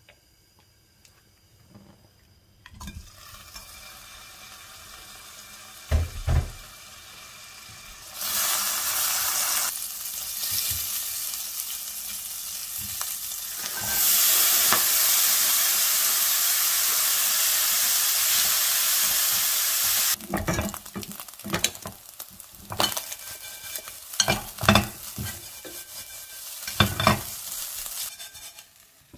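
Food frying in hot oil in a pot on a gas stove: a faint hiss from the heating oil and a couple of knocks, then a loud sizzle as shrimp goes in, and a louder, even sizzle as rice is tipped in from a bag. Then a plastic spatula stirs and scrapes the rice and shrimp against the pot in short, uneven strokes.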